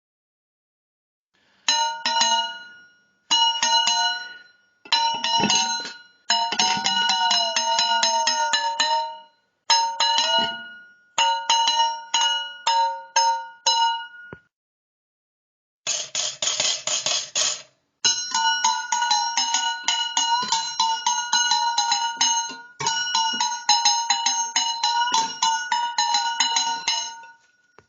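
Metal cans struck in quick runs of hits, ringing like small bells with several steady tones. One lower tone slides up and down in pitch while they ring. The runs come in separate bursts with short silent gaps between them.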